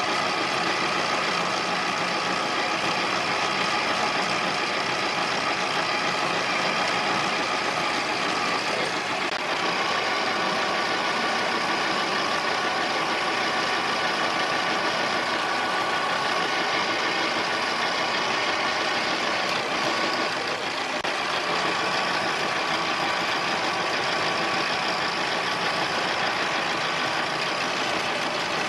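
Harbor Freight mini lathe running steadily, its motor and gear train giving a constant many-toned whine, while it turns down aluminium stock in a roughing pass of about 50 thousandths. The level dips briefly about two-thirds of the way through.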